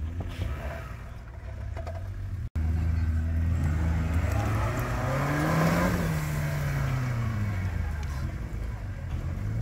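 Off-road 4x4 engine under throttle, running with a steady low note, then revving up to a peak about six seconds in and dropping back down, with another rise starting near the end. The sound breaks off for an instant about two and a half seconds in.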